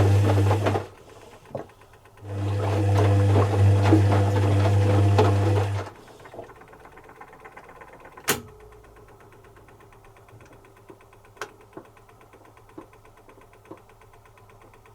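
Zanussi FC1000 compact washing machine's motor running with a steady hum: a short burst at the start, a pause of about a second, then about three and a half seconds more before it stops, the stop-start drum turning of a wash cycle. After it stops there is a sharp click about eight seconds in and a few faint ticks.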